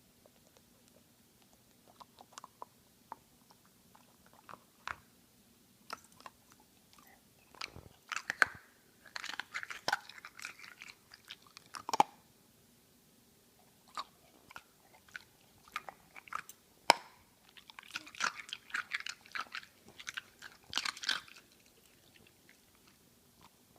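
Border Collie puppy chewing and crunching an ice cube: irregular sharp cracks and crunches, scattered at first, then coming in two busier bursts of rapid crunching.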